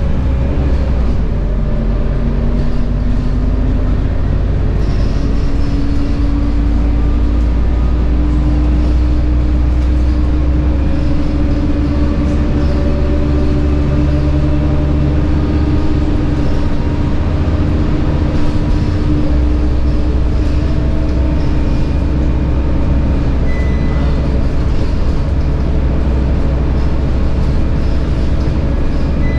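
Scania K230UB bus under way: its 9.3-litre Scania DC9 diesel engine runs with a heavy low rumble, and the ZF Ecomat 6HP504C automatic gearbox adds a pitched whine. The note climbs in the first few seconds, holds steady through the middle, and climbs again after about twenty seconds.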